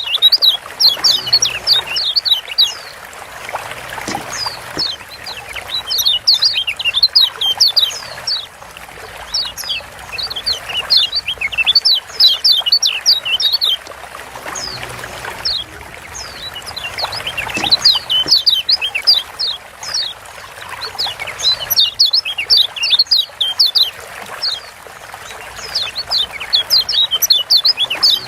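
Yellow white-eyes (kecial kuning, a Zosterops) chirping in fast runs of short, high, downward-slurred 'ciak' notes. The runs come in bursts with brief lulls, and the same passage comes back about every 14 seconds. This is a chirping lure track used to get caged white-eyes singing.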